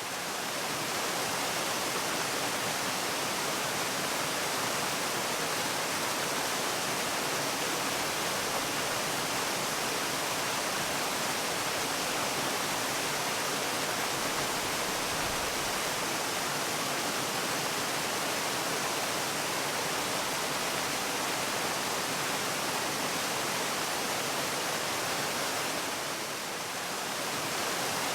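Waterfall: a steady rush of falling water, even and unbroken, dipping slightly for a moment near the start and again near the end.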